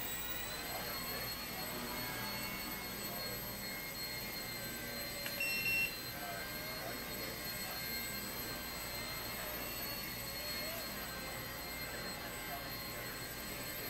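Blade 70S micro RC helicopter's electric motor and rotor running steadily in flight, a high whine holding several fixed pitches. A short electronic beep sounds once about five seconds in.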